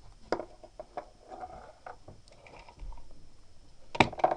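Scattered light taps and clicks of small objects being handled, with two sharper knocks about four seconds in.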